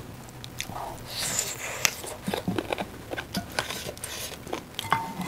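Close-miked eating sounds from people eating rice and dal by hand: chewing and wet mouth clicks and smacks in a loose string, with a brief hiss about a second in.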